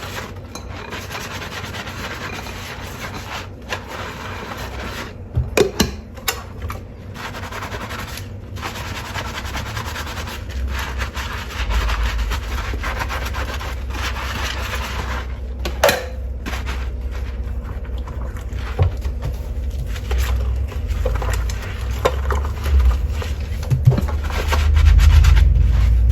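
Dishes being washed by hand at a sink: steady scrubbing and rubbing of dishware, with a few sharp clinks. A low rumble, like running water, comes in after about ten seconds and grows louder near the end.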